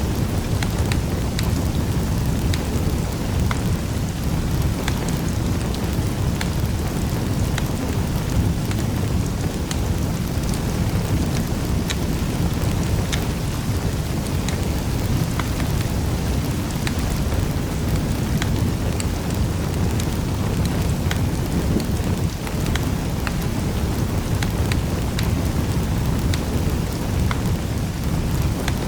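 Fireplace wood fire burning: a steady low roar with many scattered sharp crackles and pops.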